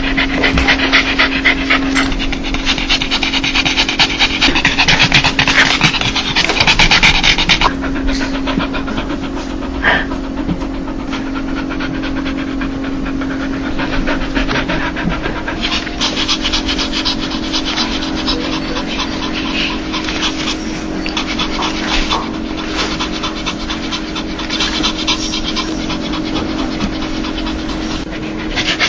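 A dog panting rapidly in quick breathy strokes, the open-mouthed 'laughing' pant of a happy, excited dog, louder for the first several seconds and softer after that. A steady low hum runs underneath.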